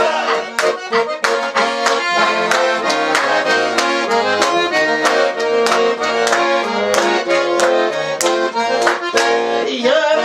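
Accordion playing a lively instrumental break in a folk-style song, sustained chords and melody over a regular beat.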